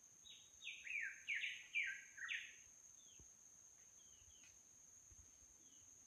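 A bird sings a quick run of about seven notes in the first two and a half seconds, each sliding down in pitch, followed by a few faint calls. Underneath is a steady high-pitched insect drone.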